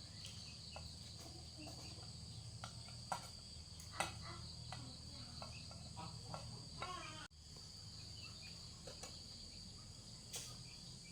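Steady high-pitched chirring of crickets, with scattered light clicks and taps. The sound breaks off for an instant about seven seconds in.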